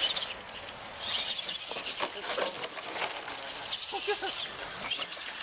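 Radio-controlled monster truck running on a dirt course, its motor and tyres heard on and off as it is driven, with faint voices about four seconds in.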